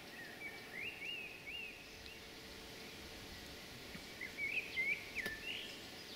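A songbird calling in short chirps that rise and fall in pitch, in two bouts, over a steady faint background hiss.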